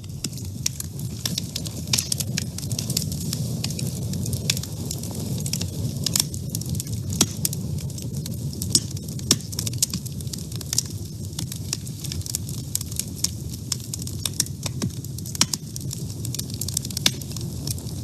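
Wood fire burning in a woodstove: frequent sharp crackles and pops over a steady low rumble of the flames.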